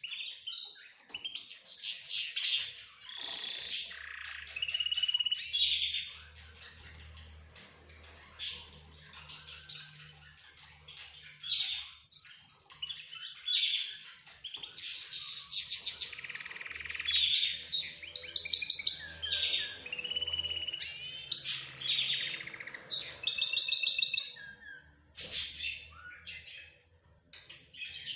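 Mixed chatter of caged pet birds (budgerigars, lovebirds, zebra finches and a canary) chirping and squawking over one another, with a quick trill a little before the end.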